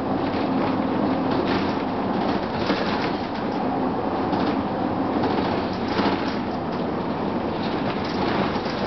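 Onboard a 2004 Gillig Phantom transit bus with its Cummins ISM diesel running and the HVAC on: a steady, loud mechanical drone with a faint hum and frequent rattles of the bus body and fittings.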